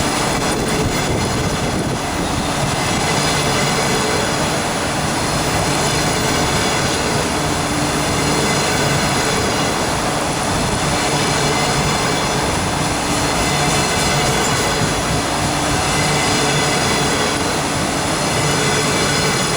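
Double-deck passenger train hauled by a 2ES4K electric locomotive rolling past, with a steady, unbroken wheel-on-rail noise.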